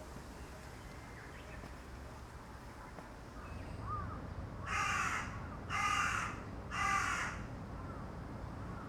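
A crow cawing three times, about one harsh caw a second, starting a little before the middle.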